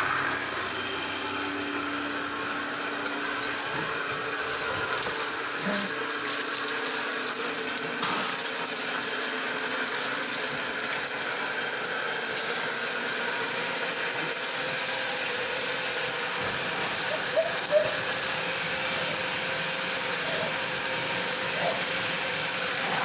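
A 1 HP centrifugal electric water pump running steadily, with water rushing out of its outlet under pressure.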